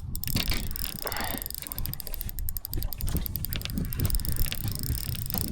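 Fishing reel clicking rapidly while a hooked walleye is played, with a low rumble beneath.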